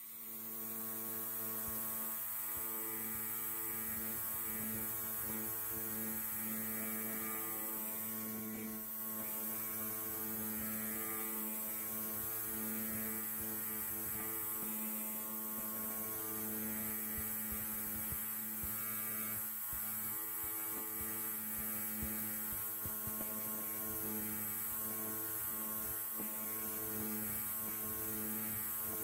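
Electric hair clipper running steadily with a constant buzzing hum. It comes up from near-quiet right at the start.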